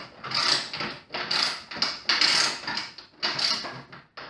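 Ratchet socket wrench being worked back and forth to tighten a nut on a table-leg bolt, its pawl clicking in repeated strokes, about two a second.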